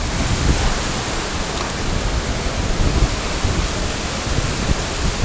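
Steady, loud rush of a waterfall, with an uneven low rumble underneath.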